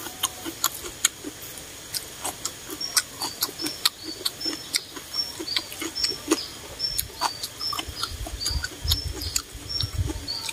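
Close-miked chewing of a crunchy vegetable salad: a quick, irregular run of crisp clicks and mouth smacks. Short high chirps repeat about twice a second behind it.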